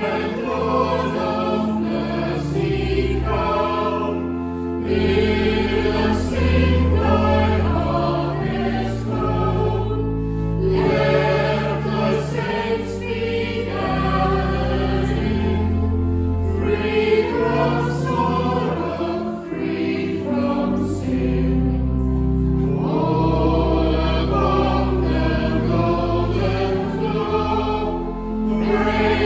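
A church congregation and choir singing a hymn to organ accompaniment, the organ holding steady low notes under the voices, with short breaks between sung lines.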